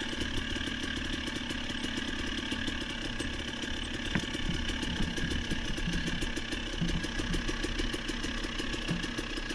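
A vehicle engine running steadily at an even speed, its firing pulses evenly spaced.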